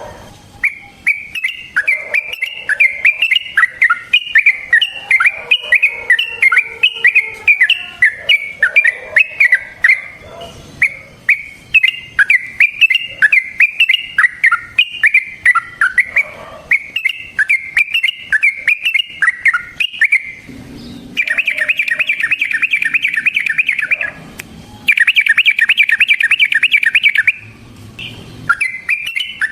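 Yellow-vented bulbul singing a long, fast run of chirping notes. Past the two-thirds mark come two fast, even rattling trills of two to three seconds each, the loudest sounds here, before the chirping song picks up again near the end.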